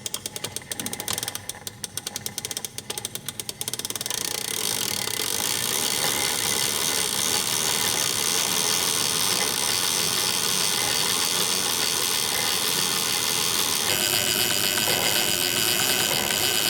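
Seahawk Falcon 103HSL fishing reel's drag giving line: rapid separate clicks for the first few seconds, then a continuous high buzzing scream as the line pulls off faster, turning brighter near the end.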